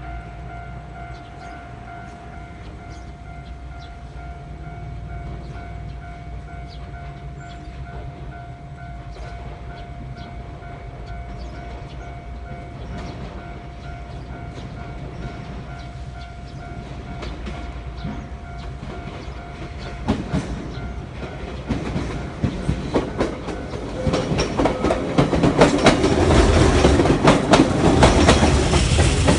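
Japanese level crossing alarm ringing steadily. About twenty seconds in, a JR Kyushu train approaches and passes over the crossing, its wheels clacking over the rail joints, and it is loudest near the end.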